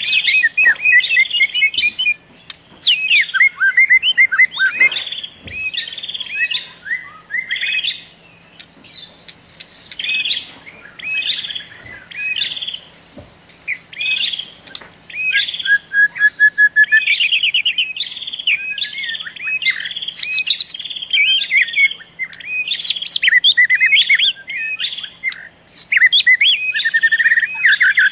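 Birds chirping and singing in quick, repeated high phrases, each a second or two long, with short pauses between.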